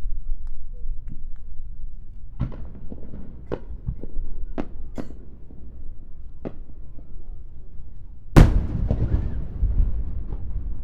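Aerial fireworks shells bursting: a run of about six sharp cracks, then one much louder boom about eight seconds in that rumbles on afterwards.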